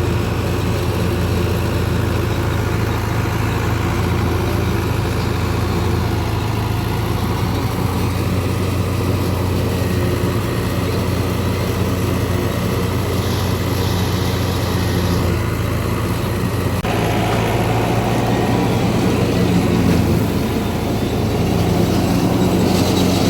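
Fiat 640 tractor's four-cylinder diesel engine running steadily under load while driving a wheat thresher, a continuous machine hum. The sound changes abruptly about seventeen seconds in.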